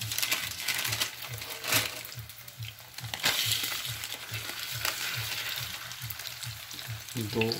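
Chicken chapli kebab patties shallow-frying in oil in a nonstick pan, sizzling steadily. The sizzle gets louder for a while near the start and again about three seconds in, as a new raw patty is laid into the hot oil and pressed flat.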